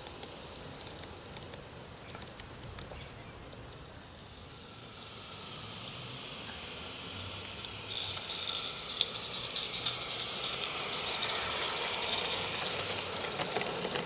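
Live-steam garden railway locomotive drawing near, its steam hiss growing steadily louder from about five seconds in, with a quick run of sharp clicks near the end.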